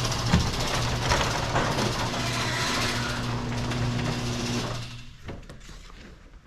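Small tractor engine idling steadily, then shut off about five seconds in, leaving a few faint crunches and clicks.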